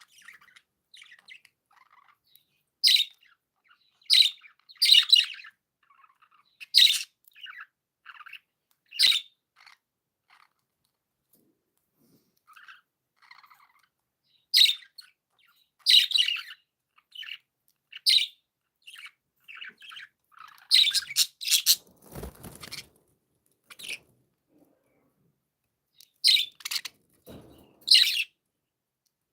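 Budgerigars chirping in short, scattered bursts of high chirps with quiet gaps between them. A low rustle or thump comes twice, in the second half.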